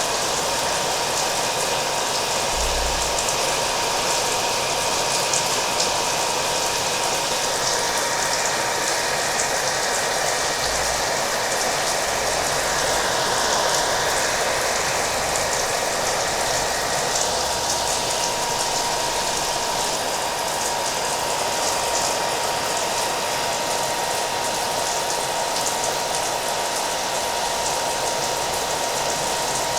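A hair dryer running steadily, its motor giving a thin constant whine, mixed with a continuous patter of rain.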